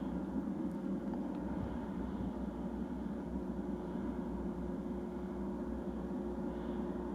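Steady machinery drone from a nearby drilling operation: a continuous low hum with a held tone and a low rumble that pulses underneath, unchanging throughout.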